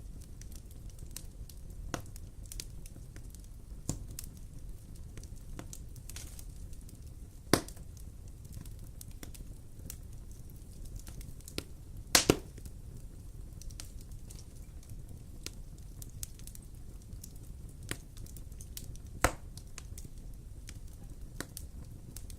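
Wood fire burning with a steady low rumble and scattered sharp crackles and pops, the loudest pops about seven and a half seconds in, a double pop around twelve seconds, and another near nineteen seconds.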